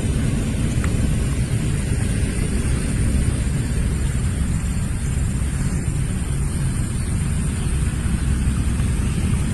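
Steady wind rumbling on the microphone, heaviest in the low end, with no separate events.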